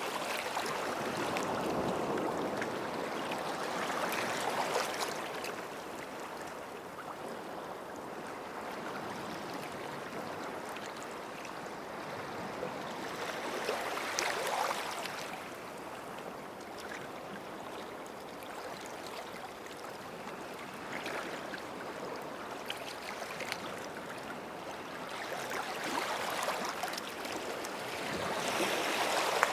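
Small sea waves washing onto a sandy shore, the hiss of water swelling and easing back every ten seconds or so, with a larger wash at the start, about halfway through and near the end.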